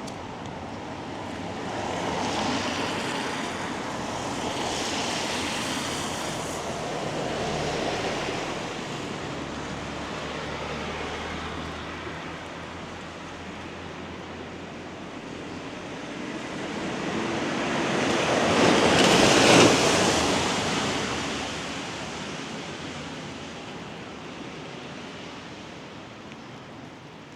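Cars passing on a rain-soaked street, their tyres hissing on the wet road surface. Several smaller swells come first, then one car builds to a loud pass about two-thirds of the way through and fades away.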